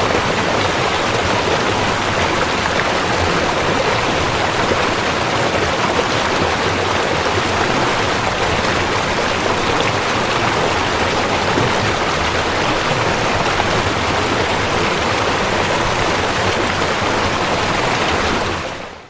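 River water flowing steadily with an even rushing sound, fading out near the end.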